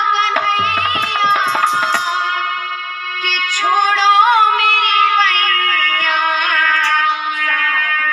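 A woman's voice singing a Krishna bhajan, with sustained wavering notes, over instrumental accompaniment. Tabla-like hand-drum strokes come in the first two seconds.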